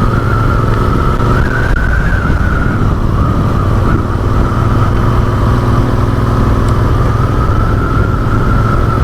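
Motorcycle engine running steadily while riding, its pitch rising a little about a second and a half in, then settling.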